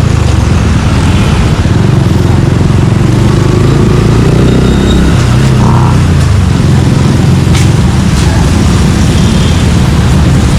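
Suzuki Gixxer 155's single-cylinder engine running through an aftermarket Yoshimura exhaust while riding, its note rising and falling with the throttle.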